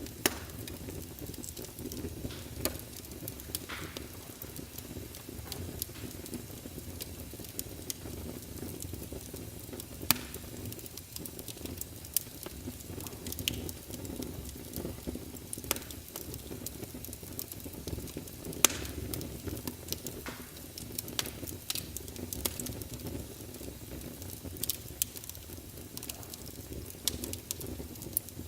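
Wood fire burning in a fireplace, with a steady low rumble of flame and frequent irregular crackles and pops from the burning logs, a few of them sharp and loud.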